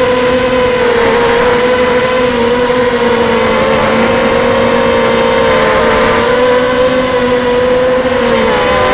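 Blackout 250 mini quadcopter's brushless motors and propellers whining steadily, the pitch wavering gently with the throttle and dipping briefly near the end. The uploader judges from the sound that at least one motor is on its way out.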